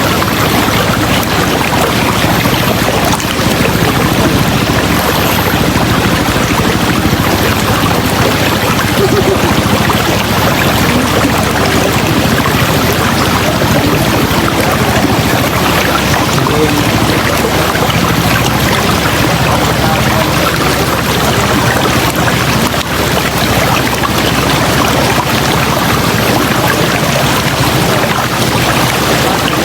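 River water flowing and rushing over rocks, a loud, steady wash of water noise.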